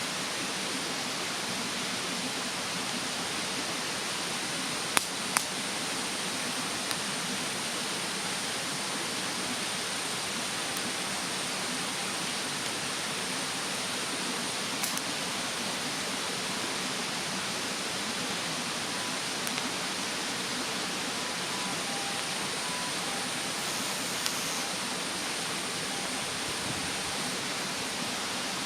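Campfire crackling, with a few sharp pops of burning wood, two in quick succession about five seconds in, over the steady rush of a mountain stream.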